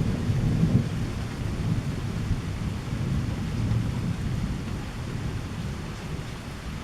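Rolling thunder rumbling deep and slowly dying away, over steady rain.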